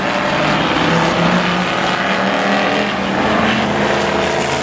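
Several demo trucks' engines running at speed around the track, a steady mix of overlapping engine notes.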